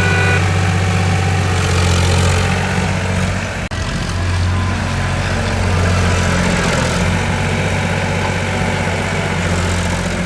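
Vehicle engine idling steadily with a low, even hum, broken by a brief drop about three and a half seconds in.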